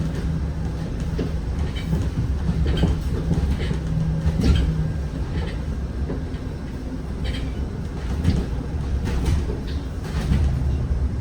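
Zhongtong N12 bus on the move, heard from inside the cabin: a steady low engine and road rumble, with rattles and knocks from the body and fittings scattered throughout.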